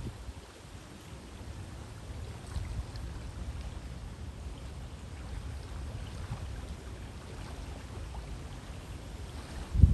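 River water flowing, a steady rushing hiss with a few faint splashes, over a low fluctuating rumble of wind buffeting the microphone that peaks in a loud gust near the end.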